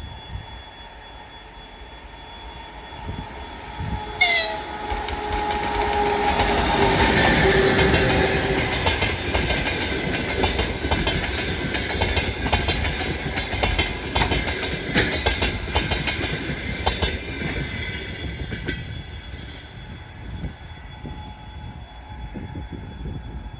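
EP20 electric locomotive sounding its horn about four seconds in, the pitch dropping slightly as it nears. Then an express passenger train passes at speed without stopping, its wheels clattering over the rail joints, and the sound fades away near the end.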